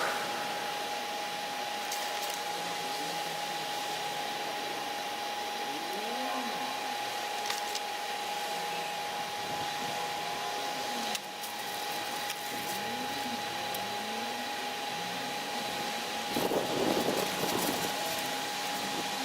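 A small electric motor running steadily with a high whine over a hiss. The sound dips briefly about eleven seconds in, and a louder rough noise comes in near the end.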